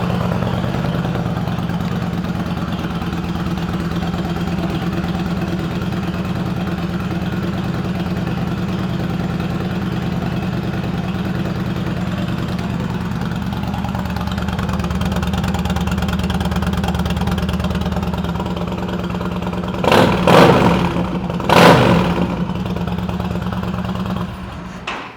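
Yamaha Stryker 1300's V-twin idling steadily through Vance & Hines downswept exhaust pipes. Near the end it is blipped twice, rising and falling in pitch, then switched off.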